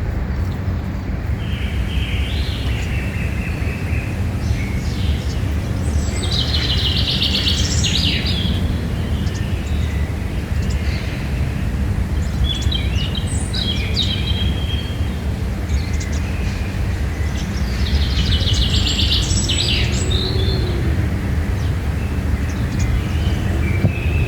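Wild birds chirping and singing, with two fast trilled phrases, one about a third of the way in and one near the end, over a steady low rumble.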